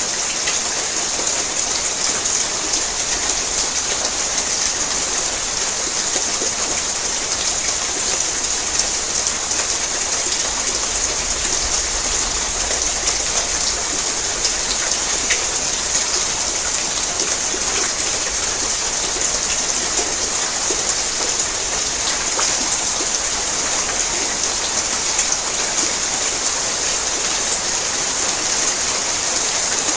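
Heavy rain falling steadily on a tin roof: a dense, even hiss with individual drops ticking through it.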